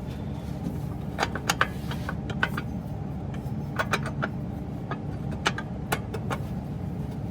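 Irregular metallic clinks and taps of hand tools and parts against metal, a few in quick succession, over a steady low hum.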